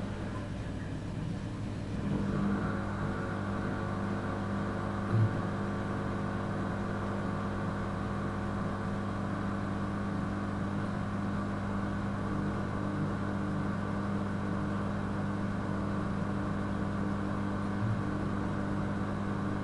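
A motor running steadily at constant speed, a low even drone that gets louder about two seconds in. There are two soft knocks, one about five seconds in and one near the end.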